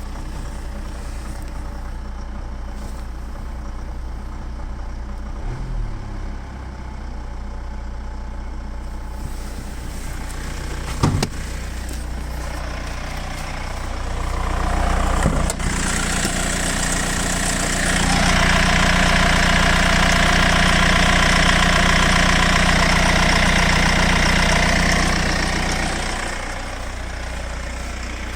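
Mercedes W245 2.0 CDI four-cylinder diesel engine idling after warm-up; the owner complains of an unexplained knock and uneven idle at this stage. Partway through, a louder, steady rushing noise builds over the idle, holds for several seconds, and falls away again near the end.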